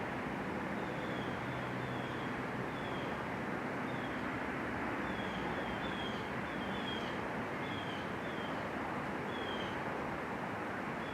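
Outdoor ambience: a steady rushing background noise with short, high, falling chirps from small animals, one or two a second.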